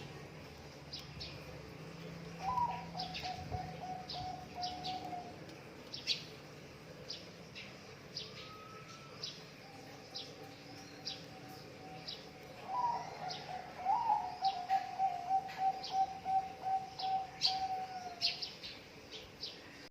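Zebra dove (perkutut) song: a long cooing phrase about two and a half seconds in, and a longer, louder one from about thirteen seconds. Each opens with a rising note and runs on as a fast string of pulsed coos. Short, high chirps from small birds come throughout.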